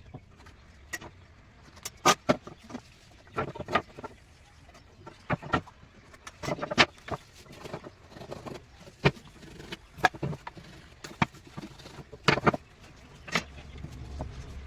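Irregular sharp knocks and taps of hand work on wood, about a dozen strikes, some in quick pairs, with pauses of a second or more between them.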